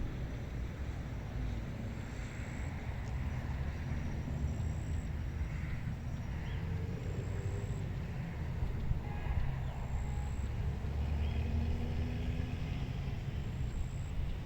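Wind blowing over a rice paddy, heard as a steady, shifting low rumble on the microphone, with faint high chirps from small creatures over it.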